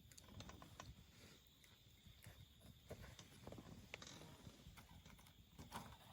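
Wood campfire crackling: irregular small pops and snaps over a low, soft rumble of burning.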